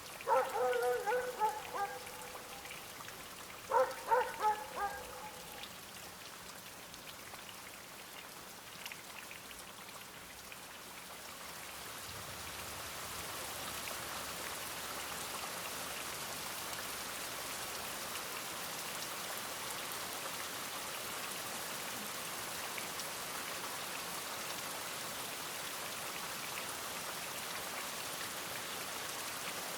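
Steady rain falling, growing louder about twelve seconds in and then holding even. Near the start a dog barks in two short bouts a few seconds apart.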